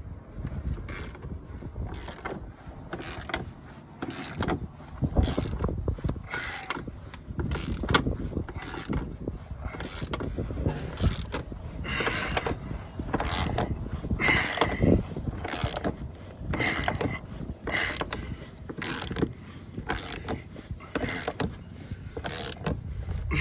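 Manual tire bead breaker being worked on a tractor tire, its plunger forcing the bead down off the rim: a steady run of sharp metallic clicks and creaks about twice a second.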